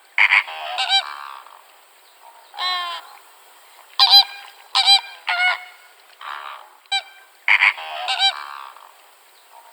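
A large bird giving a series of about a dozen short, goose-like honks, spaced irregularly.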